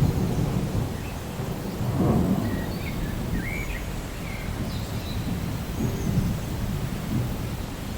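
Rainforest ambience: a low, rolling rumble that swells about two seconds in, with scattered short bird chirps above it.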